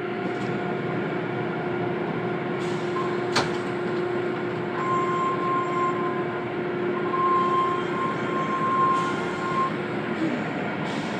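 Automatic car wash machinery running: a steady rushing noise with a low hum that stops near the end, and a higher whistling tone that comes and goes midway. There is a single sharp click about three seconds in.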